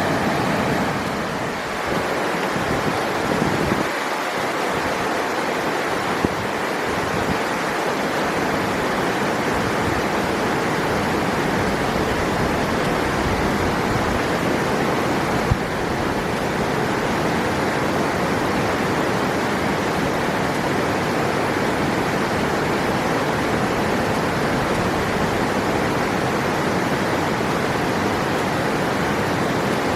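A river's flowing water: a steady, even rush of water.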